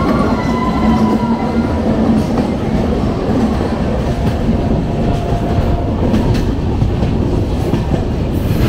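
Passenger train running along the track: a steady rumble and rattle of the coaches, with a steady hum through the first few seconds and a few sharp knocks from the wheels near the end.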